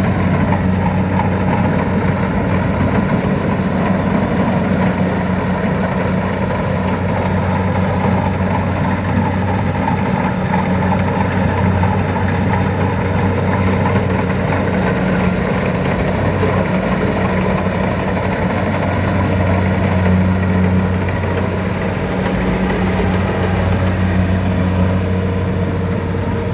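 Tractor's diesel engine running steadily at an even speed, with a deep, constant hum.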